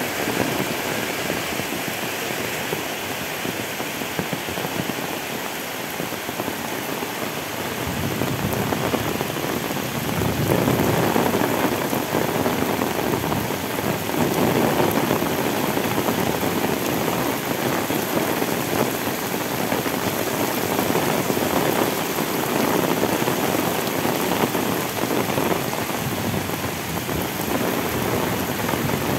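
Heavy tropical rain pouring onto a paved road, a dense steady hiss that grows louder about ten seconds in.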